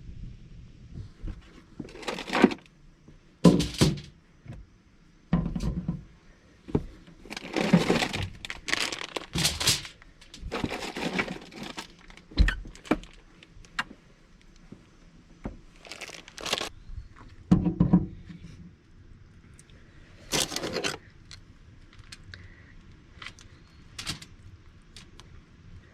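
Irregular handling noises: a string of short rustling and crackling bursts with sharp clicks and knocks, spaced a second or two apart.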